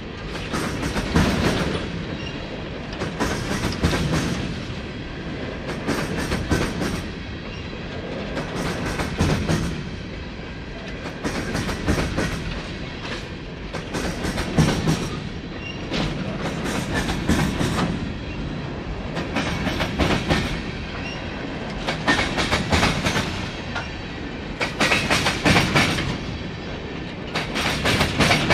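Empty coal train's cars rolling slowly past, their wheels clacking over the rail joints in clusters about every two and a half seconds over a steady rumble.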